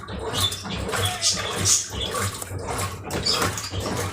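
Brastemp Ative BWL11 washing machine churning its wash water: irregular sloshing swells over a steady low motor hum.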